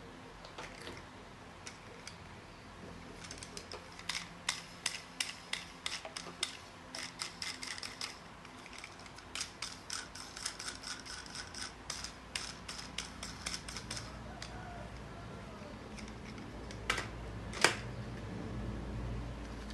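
A run of small, sharp mechanical clicks, a few a second, for about ten seconds, then two louder clicks near the end, with a low hum rising under them.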